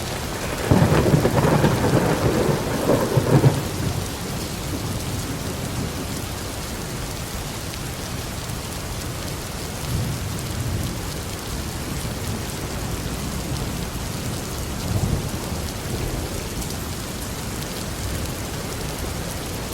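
Thunderstorm: steady rain with a loud rumble of thunder about a second in, lasting about three seconds, and fainter rumbles later on.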